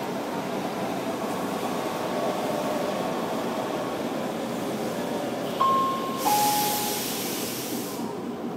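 Steady rumble inside the driver's cab of a Tokyu Toyoko Line commuter train. A little past halfway, a two-note electronic chime sounds, a high note then a lower one, overlapping a brief burst of air hiss.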